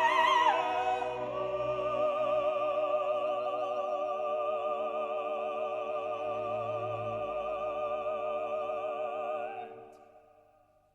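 Operatic singing with strong vibrato over a sustained orchestral accompaniment: a long held note that fades out near the end.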